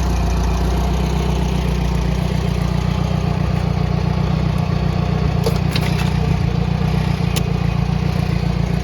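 Simca engine of a Pony vineyard tractor running steadily, with a few light clicks a little past the middle.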